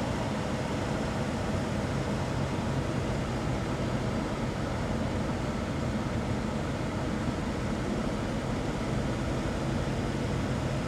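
2018 Infiniti Q60's VR30DDTT 3.0-litre twin-turbo V6 running steadily at a raised idle of about 2,500 rpm, heard from inside the cabin with the air-conditioning blower on. The engine has misfire codes that trace to retarded bank 2 cam timing.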